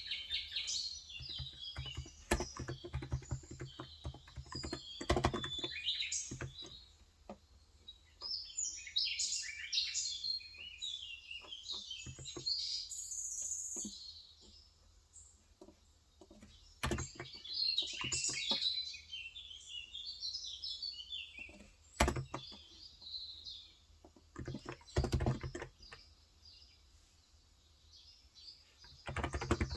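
Small birds chirping and twittering in rapid runs of short calls, mixed with typing on a Cox Endeavor electrostatic capacitive keyboard with 35 g switches, heard in quick bursts of keystrokes near the start and again briefly later.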